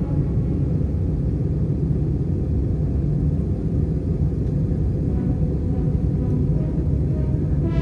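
Steady low rumble of an Airbus A319 airliner's engines and airframe, heard from inside the cabin.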